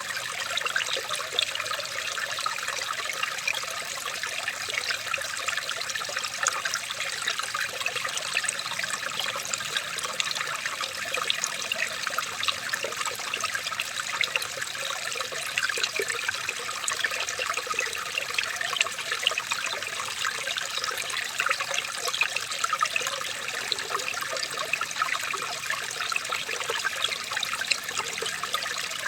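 Running water trickling and splashing steadily, a dense patter of small drips and splashes.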